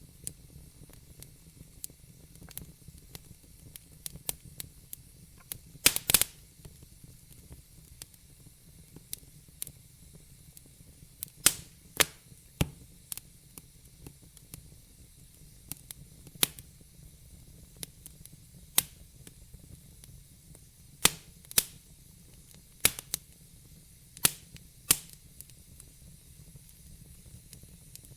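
Wood fire in a fireplace crackling: irregular sharp pops and snaps over a faint hiss, with a loud cluster of pops about six seconds in.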